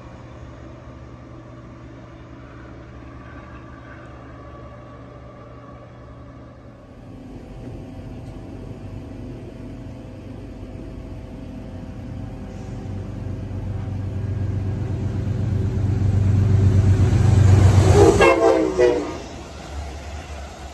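An Amtrak P32AC-DM diesel locomotive approaching with a low rumble that builds as it nears. About eighteen seconds in it gives a short blast of its K5LA five-chime horn, and the pitch drops as it passes. Its passenger cars then roll by.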